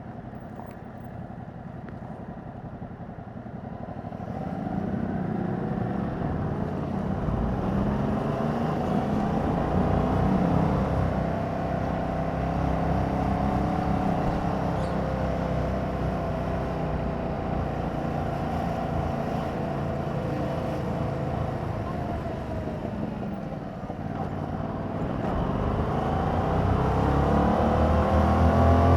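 Yamaha MT-07's 689 cc parallel-twin engine through its stock exhaust while riding. It is quieter for the first few seconds, then louder, its pitch rising and falling as it pulls through the gears. It eases off about three-quarters of the way through, then builds again near the end.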